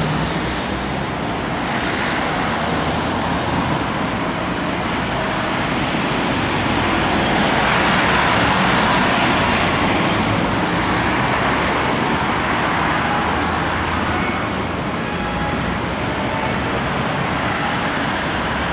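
Steady road traffic noise, growing a little louder around the middle.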